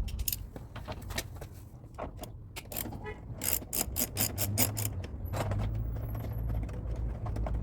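Mechanical clicking from hand tools: scattered sharp clicks, then a quick run of about eight even clicks in the middle, over a low steady hum that gets stronger in the second half.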